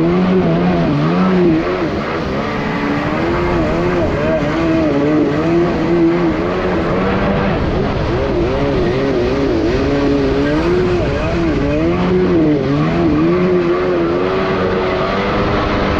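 Kawasaki ZXi 1100 jet ski's three-cylinder two-stroke engine running hard under way, its pitch wavering up and down every half second or so, over a steady rush of noise.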